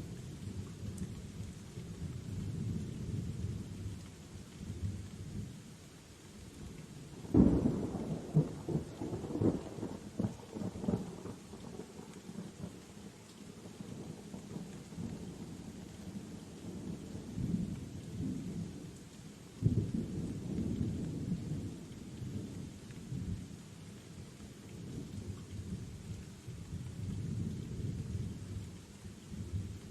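Thunderstorm: thunder rumbling low and continuously over steady rain, with a sharp crackling thunderclap about seven seconds in and another sudden peal about twenty seconds in.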